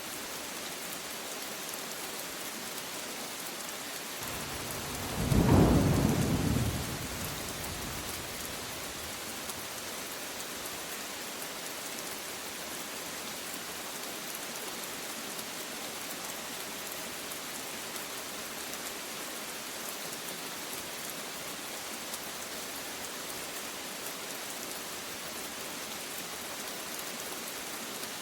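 Steady rainfall hissing, with a single clap of thunder about five seconds in that rumbles loudly and fades away over the next two or three seconds.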